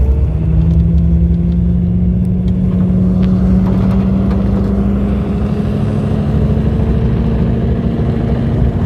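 Holden VZ Commodore's V6 engine held at high revs while the car spins its wheels on dirt, the pitch climbing slowly and steadily, over a heavy low rumble, heard from inside the car.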